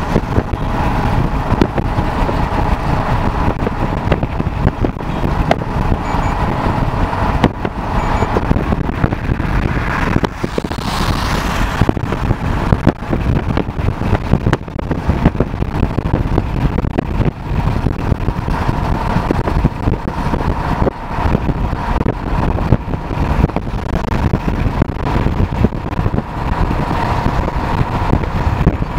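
Car driving on the road, heard from inside the cabin: steady engine and road noise with a scatter of small knocks, and a brief louder hiss about eleven seconds in.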